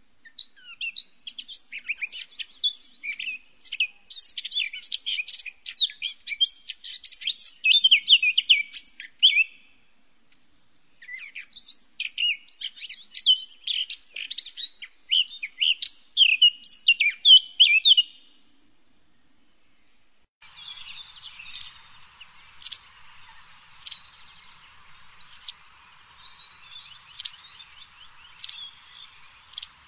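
Songbird singing in two long runs of rapid, high twittering chirps, the second stopping about 18 seconds in. A couple of seconds later a different outdoor ambience starts: a steady hiss with sharp single chirps about once every second or so.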